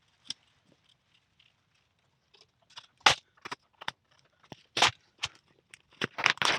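Stiff clear plastic patterning sheet crackling and crinkling as it is handled: scattered sharp crackles, then a quicker cluster of them near the end.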